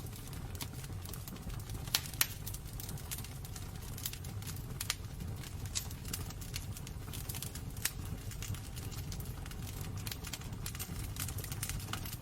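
Wood burning in a fireplace: a steady low rumble of the flames with frequent sharp crackles and pops, two louder pops about two seconds in.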